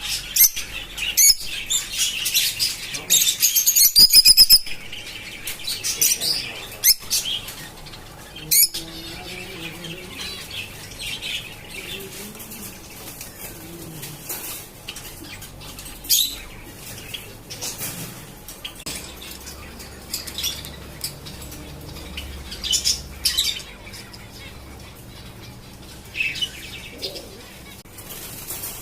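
Caged canary chirping in short high-pitched bursts, busiest in the first few seconds with a fast trill around four seconds in, then sparser calls. A few sharp clicks sound among the chirps.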